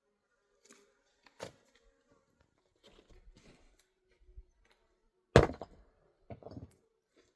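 A few scattered knocks and thuds, the loudest a sharp thud about five and a half seconds in, followed a second later by a shorter, duller one.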